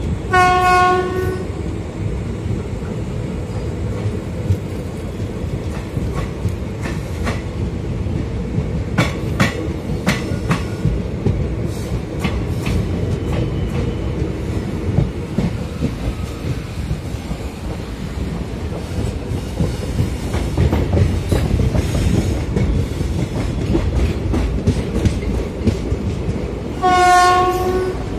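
Passenger train running, heard from a coach window: steady rumble with scattered wheel clatter. A short train horn blast sounds about a second in and another near the end.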